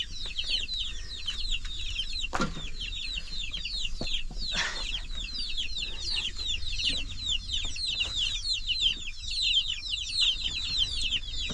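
Chickens peeping: many short, high, falling chirps overlapping one another without a break, over a low steady rumble. About two seconds in comes a single sweep falling sharply in pitch, and a brief rushing sound follows a couple of seconds later.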